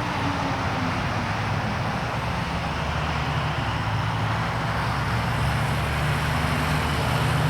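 A machine engine running steadily, a low hum that rises slightly in pitch about five seconds in.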